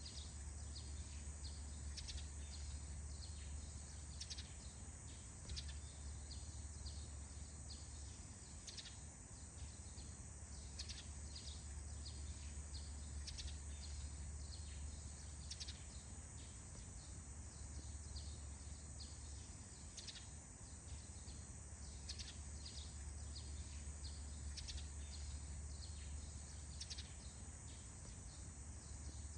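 Small birds chirping with short, scattered calls, several a second, over a steady low rumble and a thin, steady high-pitched hum in the background.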